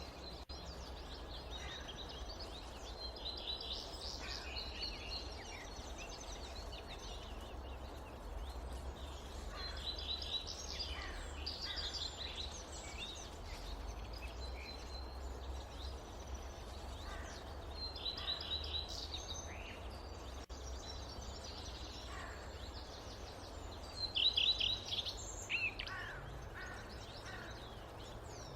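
Forest birds chirping and trilling in short bursts every several seconds, the loudest burst near the end, over a steady low rumble of wind.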